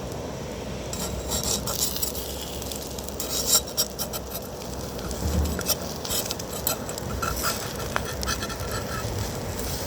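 A utensil scraping, stirring and clinking against a pan or dishes, many short clicks and scrapes, over a steady low rush.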